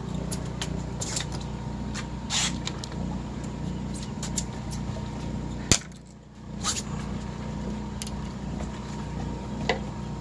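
Boat engine running steadily with a low hum. A few sharp clicks and knocks come on top of it, the loudest about halfway through.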